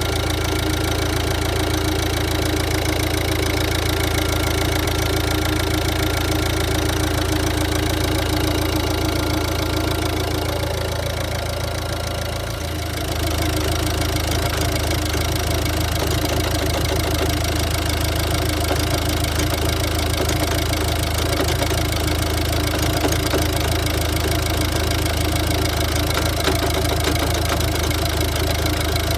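Ford diesel engine idling roughly, with a knocking running note. About twelve seconds in, the sound dips briefly and then settles into a slightly different note.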